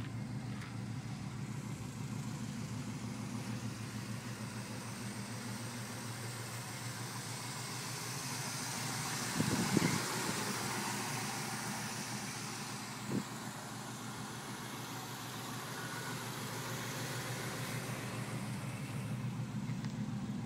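Small-block Chevy 383 stroker V8 idling steadily through a Flowmaster 40 series exhaust, heard from inside the car. There is a brief louder burst about halfway through and a short knock a few seconds later.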